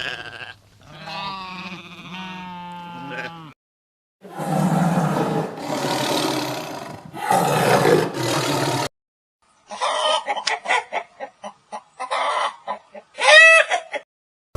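A run of farm animal calls. First a wavering bleat, then several loud, rough, noisy calls from a larger animal, then a hen clucking in quick short notes with a louder squawk near the end.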